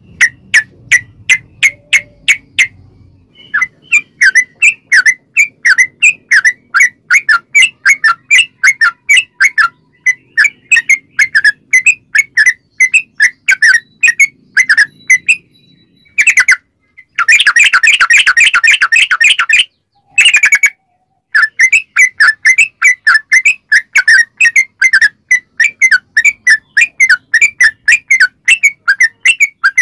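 Yellow-vented bulbul (trucukan) calling: a loud, rapid series of short chirping notes repeated about three a second, broken a little past halfway by a dense, faster rolling trill of about two seconds.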